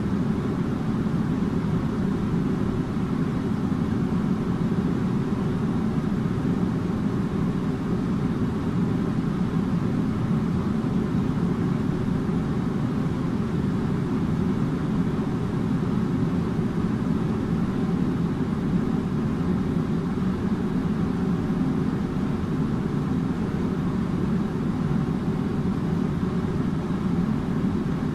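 Air conditioner running steadily: a constant low hum with a rush of moving air above it, no changes or cycling.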